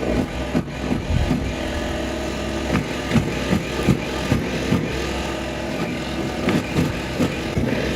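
Small snowblower running steadily while clearing heavy, wet snow, with irregular knocks and thumps.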